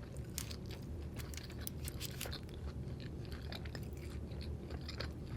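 Close-up chewing of a mouthful of steak fajita taco: many small, irregular wet clicks and soft crunches.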